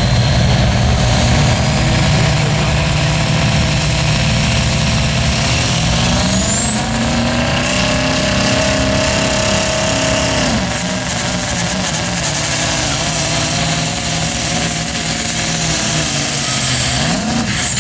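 Diesel truck pulling a sled at full throttle, engine running hard with a high turbo whistle. The whistle climbs steeply about six seconds in, holds, dips a little halfway through, eases lower, then falls away sharply at the very end as the throttle comes off.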